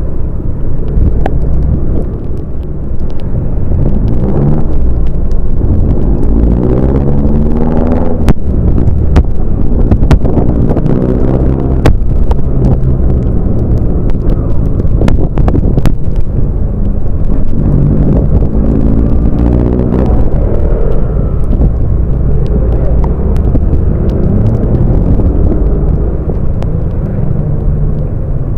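Motorcycle engine running under way, its pitch climbing as it accelerates twice, a few seconds in and again past the middle, over steady wind and road rumble.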